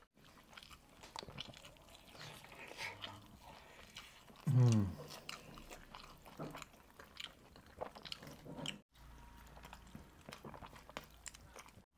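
Close-miked chewing and biting of roast chicken, full of wet mouth clicks and smacks. About halfway through comes one short hummed vocal sound, the loudest moment.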